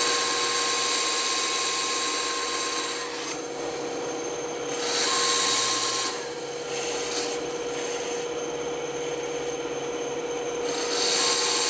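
Band saw running with a steady hum, its blade cutting into wood in louder stretches: at the start, again about five seconds in, and near the end.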